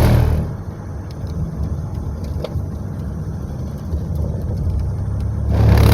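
Steady low road and engine rumble of a car driving on the highway, heard from inside. A louder rushing swell comes right at the start and another near the end.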